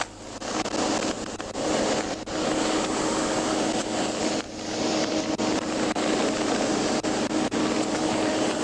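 Loud, steady vehicle noise with a low hum underneath. It dips briefly near the start, about two seconds in, and again about four and a half seconds in.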